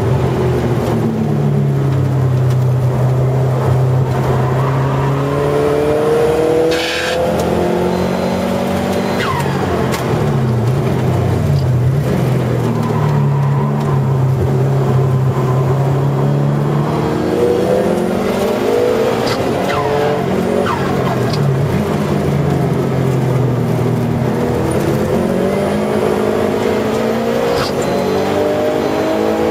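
Subaru Legacy's engine heard from inside the cabin under hard track driving: the note climbs under acceleration, breaks at a gear change about seven seconds in, holds at high revs, falls away as the car slows, then climbs again toward the end.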